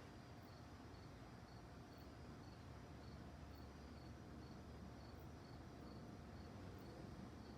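Crickets chirping faintly at night, an even rhythm of about two short, high chirps a second, over a low steady background hiss.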